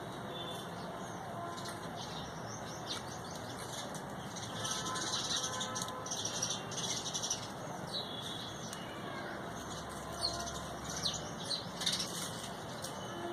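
Several small birds chirping and twittering in quick, overlapping high notes, busiest about five seconds in and again near the end.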